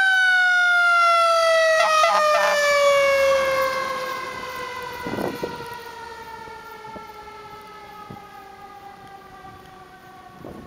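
A fire engine's mechanical siren, wound up once and then coasting down, its wailing pitch falling slowly and fading over several seconds.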